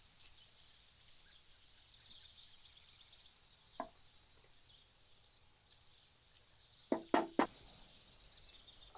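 Four light knocks, one about four seconds in and three in quick succession near seven seconds, over faint birdsong outdoors.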